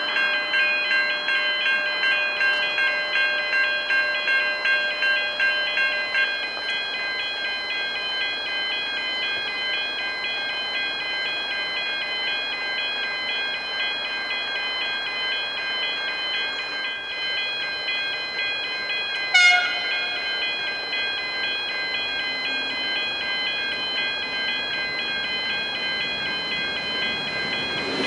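Western Colonnades Type 3 electronic level-crossing bells ringing in a steady repeating chime, the warning that a train is approaching. About two-thirds of the way through, a short blast of a train horn.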